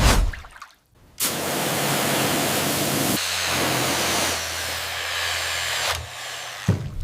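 A short noisy burst, then about a second in a steady hissing rush with a low motor hum sets in and runs until it stops near the end.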